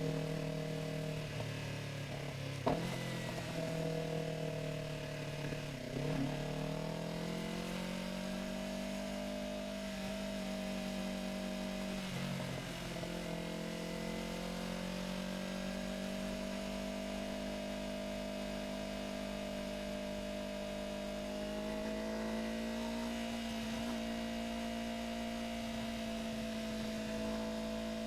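Yamaha R3's parallel-twin engine under way. Its pitch dips and climbs again three times in the first dozen seconds as the bike shifts up through the gears, then holds nearly steady at cruising speed.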